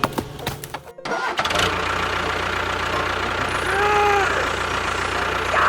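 A vehicle engine starts about a second in and then runs at a steady idle. A short tone rises and falls over it near the middle.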